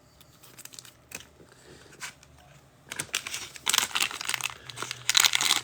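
Plastic card-pack wrapping crinkling and tearing as a pack is handled and opened. It starts with a few light clicks, and the crinkling grows louder from about halfway in.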